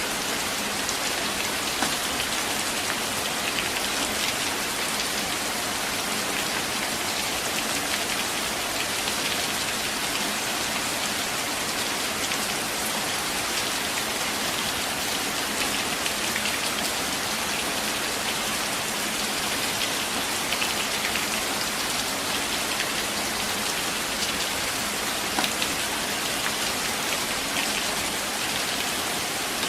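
Steady rain falling in a forest, with a dense patter of drops on leaves and ground.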